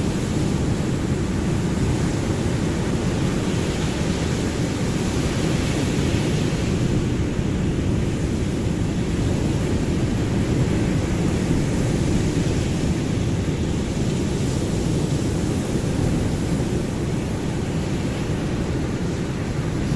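Ocean waves: a steady, low rush of surf with no single breaker standing out.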